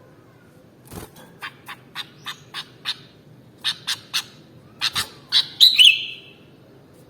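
Sooty-headed bulbul (kutilang) calling: a run of short, sharp chirps starting about a second in and growing louder, ending in a loud warbled phrase near the end.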